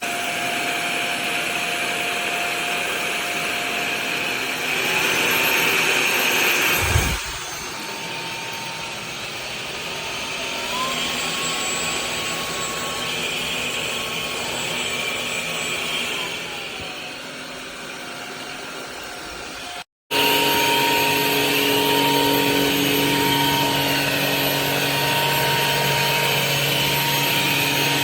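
EUARY cordless stick vacuum running with a steady motor whine. The whine steps up in pitch twice and drops back later, with a single knock about a quarter of the way in. There is a brief dropout about two-thirds of the way through, then it runs on.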